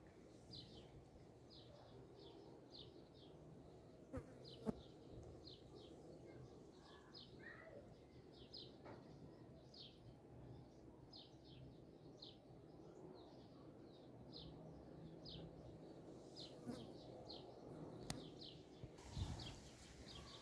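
Faint outdoor ambience with a steady series of short, high chirps, two or three a second, from a small animal. Two sharp clicks come about four seconds in.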